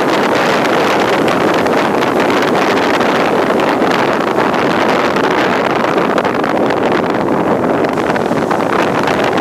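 Steady roar of ocean surf, with wind buffeting the microphone.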